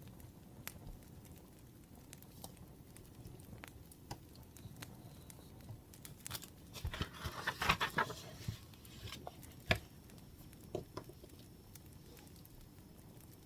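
Wood fire crackling faintly with scattered sharp pops, and a rustling, crinkly burst about seven seconds in that lasts around two seconds.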